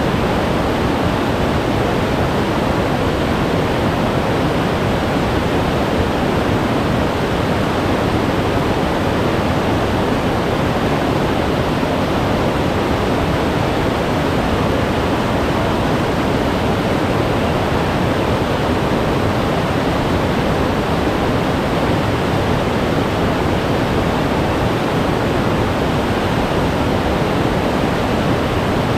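Glacier-fed mountain stream rushing over rocks, a loud, steady wash of water noise.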